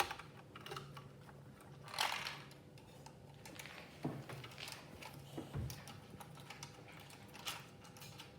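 Light plastic clicks and knocks of a LEGO model being handled: scattered taps, with a few louder rattles about two, four and five and a half seconds in.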